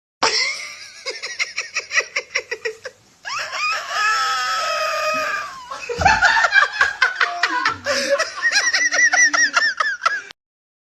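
Hearty human laughter in repeated fits, with a long drawn-out vocal cry in the middle; it cuts off abruptly a little before the end.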